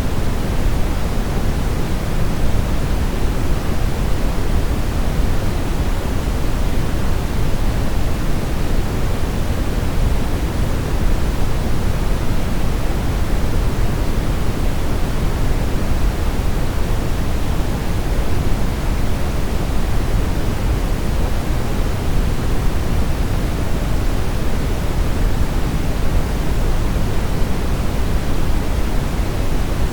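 Steady brown noise: an even, unchanging hiss-like rumble, heaviest in the low end and falling off toward the highs.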